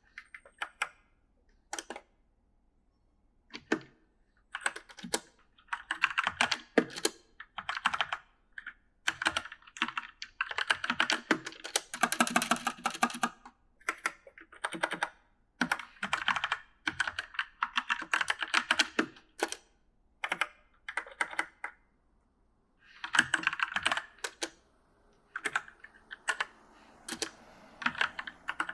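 Typing on an E-Element mechanical gaming keyboard: runs of sharp key clicks in uneven bursts, broken by short pauses.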